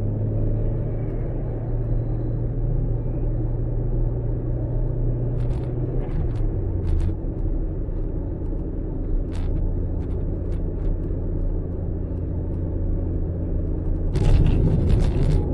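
Car engine idling with a steady low rumble, its pitch dipping slightly about six seconds in. A few sharp clicks occur in the middle, and a louder crackling noise begins near the end.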